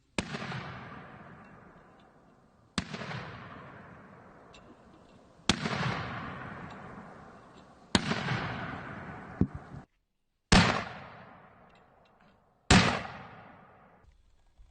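60 mm mortar blasts, six in all, sharp bangs about two and a half seconds apart, each trailing off in a long rolling echo.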